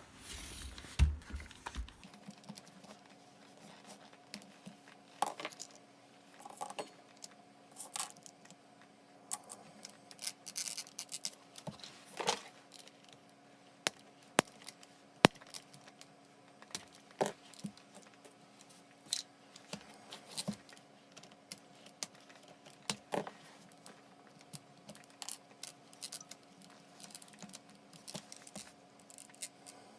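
Irregular clicks and light metallic clinks of small parts and tools being handled, over a faint steady hum.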